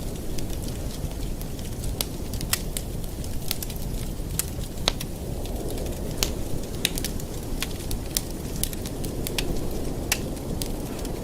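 Fire crackling in a fireplace: frequent sharp, irregular pops and snaps over a steady low rumble.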